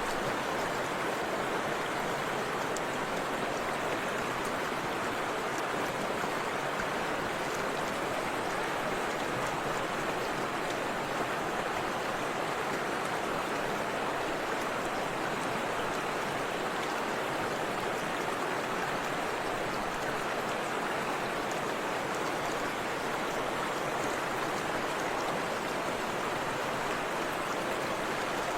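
Forest river flowing over a small waterfall: a steady, even rush of water.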